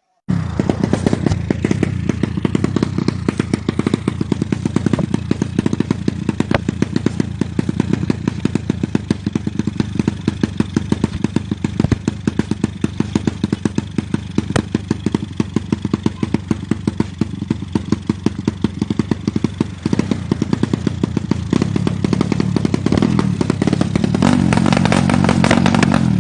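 Motorcycle engine running steadily, a fast even train of firing pulses.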